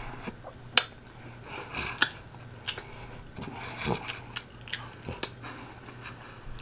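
A person chewing and biting pig feet close to the microphone: wet mouth smacking with irregular sharp clicks.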